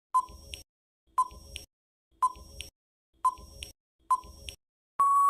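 Quiz countdown timer sound effect: five short electronic ticks about a second apart, then a longer steady beep near the end that signals time is up.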